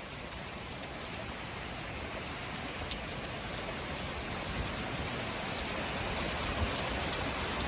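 Thunderstorm rain pouring down as the storm's rain shield arrives, an even hiss that builds steadily louder, with scattered drops ticking close by.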